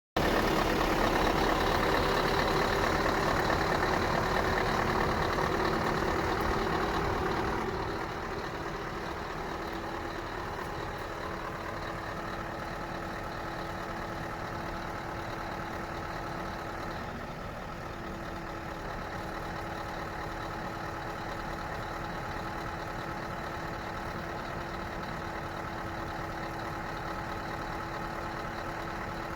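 Scania R560's V8 diesel engine idling. It runs louder for about the first eight seconds, then settles to a quieter, steady idle.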